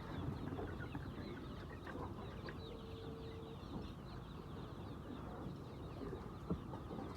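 A flock of chickens clucking and chirping, many small calls overlapping continuously.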